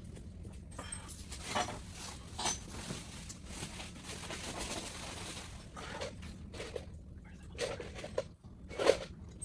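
Scattered clicks and knocks of parts being handled during bumper and trim fitting, with a stretch of rustling in the middle and one sharper knock near the end.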